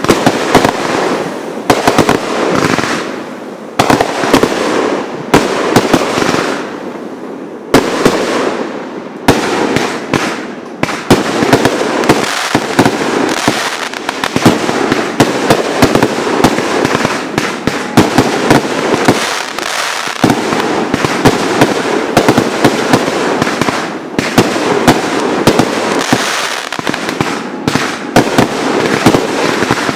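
Aerial fireworks bursting in a continuous barrage: rapid, overlapping bangs with crackling between them. The bursts become denser and more continuous after about ten seconds.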